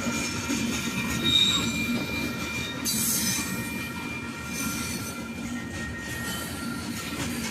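Freight train of rock cars rolling past on steel rails: a steady rumble under thin, sustained wheel squeal, with a brief higher squeal about a second and a half in and a hissing screech about three seconds in.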